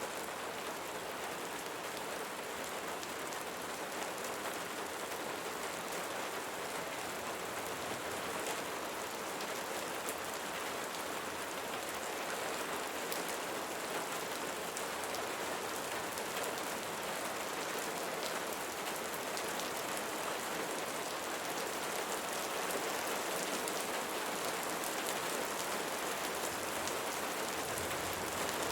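Steady rainfall, drops pattering on a surface in a dense, even hiss with fine drop ticks throughout.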